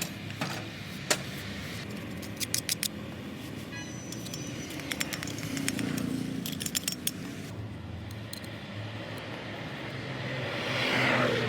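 Small metal parts clinking and tapping in scattered clusters over a steady low hum, with a vehicle passing by that swells up near the end.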